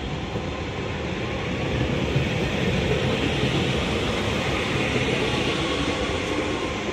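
Northern Class 331 electric multiple unit pulling away from the platform: a steady rumble of wheels on rail with running hiss, growing a little louder about two seconds in.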